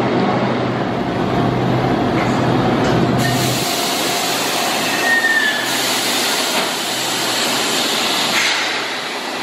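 Enoshima Electric Railway two-car electric train pulling out past the platform, with running noise from motors and wheels. A brief high squeal comes about five seconds in.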